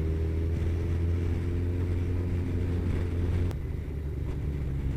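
Kawasaki ZZR1400's inline-four engine running steadily at cruising speed, with road and wind noise. About three and a half seconds in there is a click and the engine note drops and gets a little quieter.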